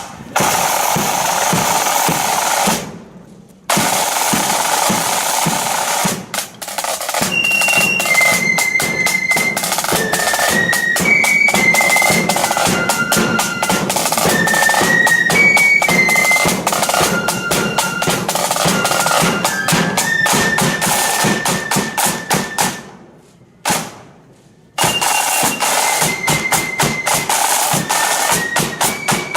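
Blood-and-thunder flute band playing on the march: snare drums rolling hard over bass drum beats, with the flutes carrying a tune from about seven seconds in. The drumming drops out briefly twice.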